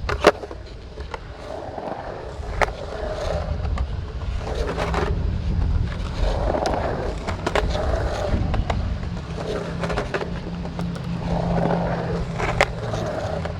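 Skateboard rolling and carving around a concrete pool: a steady wheel rumble that rises and falls, broken by sharp clacks of the board and trucks at several points.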